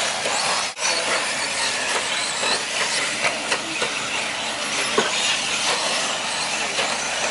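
Radio-controlled short course trucks running around a dirt track: a steady, even hiss of motors and tyres, briefly dipping just under a second in.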